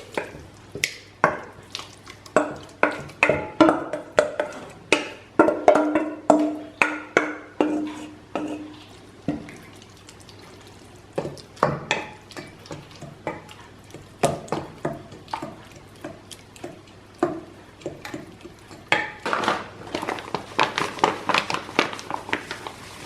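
A utensil knocking and scraping against a mixing bowl in irregular quick strokes while pumpkin purée, yeast and flour are mixed for bread dough. The strokes come thick at first, thin out in the middle, and pick up again near the end.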